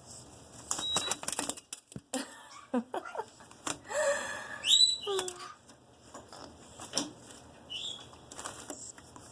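Black-headed caique bathing on a wet towel: scattered rustles, clicks and wing flaps as she rubs and splashes on it, with a brief squeak about five seconds in.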